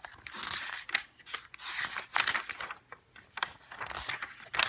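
Soft rustling and scraping noises in short irregular bursts, with a few light clicks.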